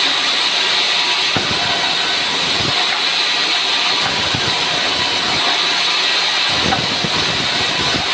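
Sawmill saw cutting through dry pine wood, a steady, loud hissing noise with the machine running underneath.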